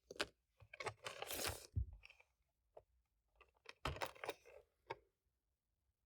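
Close handling noises: scattered clicks and short crinkling, crunchy rustles, bunched about a second in and again about four seconds in.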